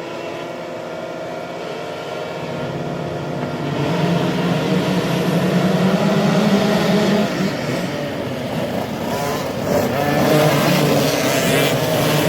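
50cc two-stroke mini motocross bike engines running, getting louder over the first four seconds and then staying loud with revs rising and falling.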